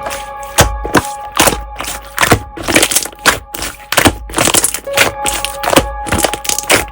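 Slime being squished, giving sharp crackling pops about two or three times a second, over soft background music with held notes.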